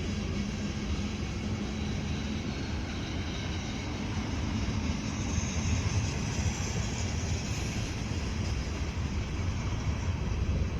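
A freight train's cars rolling past, a steady rumble of steel wheels on rail.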